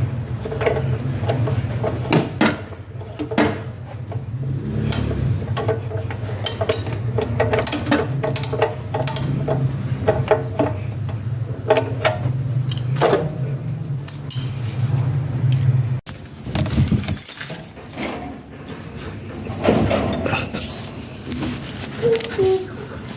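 Metal tools and parts clinking and tapping over a steady low hum; the hum stops about sixteen seconds in, leaving scattered knocks and rubbing.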